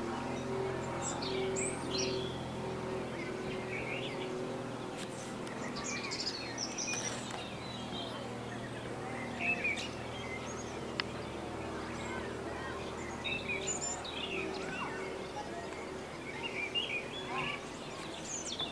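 Small birds chirping and calling in short, scattered bursts over a steady low hum.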